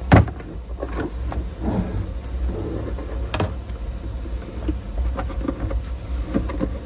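Handling noises while parts of an old tube radio are being removed: a sharp knock just after the start and another a little past halfway, with lighter clicks and scrapes between, over a steady low hum.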